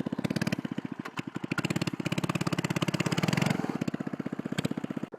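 Small single-cylinder mini bike engine running with its muffler removed, each firing a sharp exhaust pop. It revs up about a second and a half in and drops back to a lower speed after about three and a half seconds.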